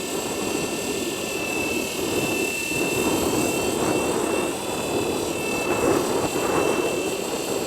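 Blade 230 S V2 electric collective-pitch RC helicopter in flight: a steady high whine from its brushless motor and drivetrain over the whoosh of the spinning main rotor blades, the pitch wavering slightly with the throttle and blade pitch.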